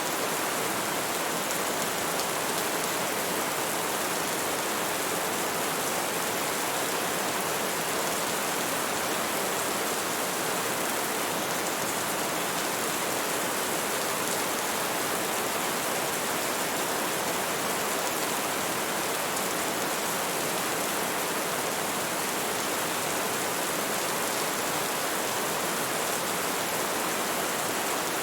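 Steady rain falling on a surface, an even, unchanging hiss.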